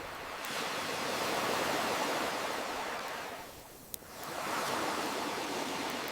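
Ocean waves washing in, two slow swells with a lull between them. A single sharp pop from a campfire comes near the middle.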